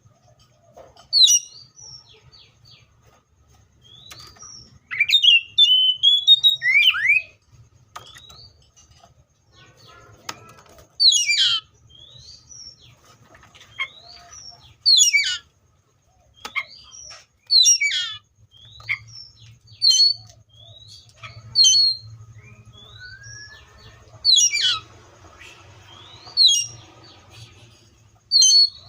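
Seychelles magpie-robin singing: loud whistled phrases of quick up- and down-sweeping notes, repeated every second or two with short gaps between.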